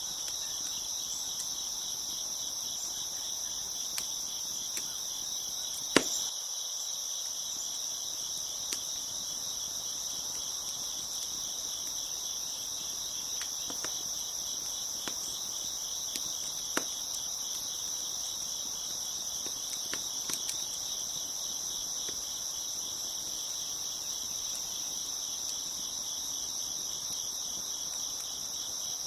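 A dense, steady chorus of crickets chirping, with a few sharp, scattered pops from a crackling wood fire; the loudest pop comes about six seconds in.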